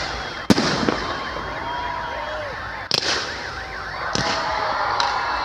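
Fireworks display: sharp bangs of bursting shells, the loudest about half a second in and three more later, over a continuous layer of warbling, wailing tones.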